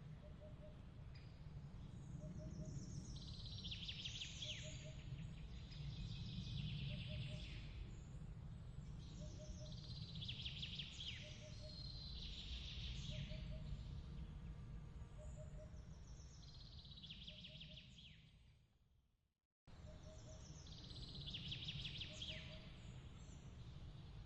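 Trilling bird calls in short falling phrases every few seconds, over a steady low rumble and a soft chirp that repeats about every two seconds. About three-quarters of the way through, the whole ambience fades away, then snaps straight back.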